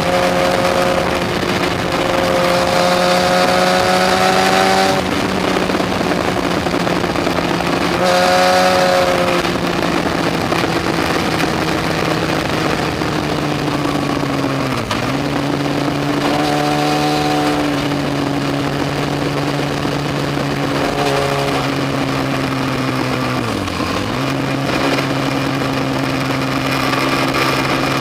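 Yamaha FZ1's inline-four engine running under way at fairly steady revs, with a rushing noise throughout. The engine pitch dips briefly and recovers twice in the second half, and the engine sound swells louder and higher several times.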